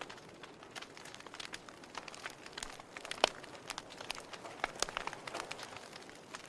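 Fireplace fire crackling with irregular sharp pops, the loudest about three seconds in.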